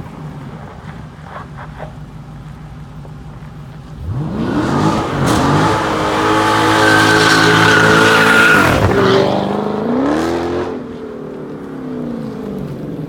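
Hemi V8 engine revved hard: the revs climb steeply about four seconds in and are held high, drop sharply near nine seconds, rise once more, then fall back to a lower drone.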